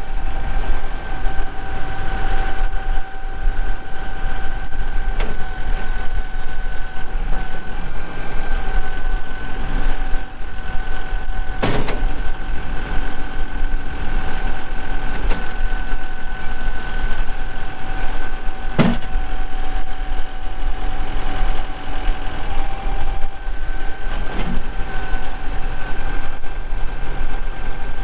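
Kubota M4-071 tractor's four-cylinder diesel engine running steadily, with a constant whine over the engine. Two sharp clunks are heard, about twelve and nineteen seconds in.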